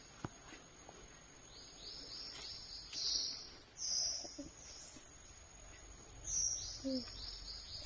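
A songbird singing: two runs of quick, repeated down-slurred chirps, with a few louder high notes between them. A thin, steady high-pitched tone runs underneath.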